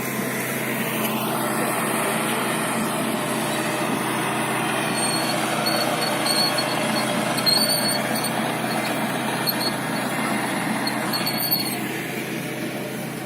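Train passing, a steady rumble of wheels on rails that is loudest around the middle and fades near the end.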